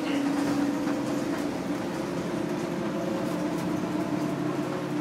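Interior ride noise of a 2000 Nova Bus LFS city bus: its Detroit Diesel Series 40 engine and Allison B400R transmission running steadily with a low drone and road noise, and a few light clicks and rattles.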